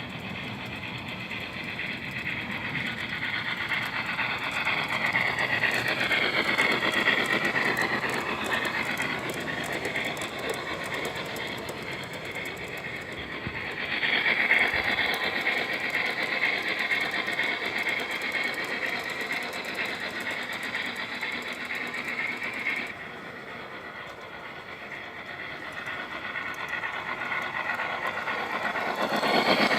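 Gauge 1 model train, a BR 80 tank locomotive with four coaches, running on its track: motor and gear hum with wheels clicking over the rails. It grows louder and fades as the train passes, twice, then drops off suddenly about two-thirds of the way through and builds again near the end.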